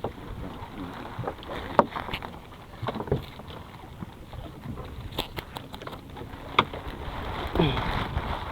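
Wind on the microphone and water noise aboard a small fishing boat at sea, with scattered sharp knocks and clicks of gear being handled.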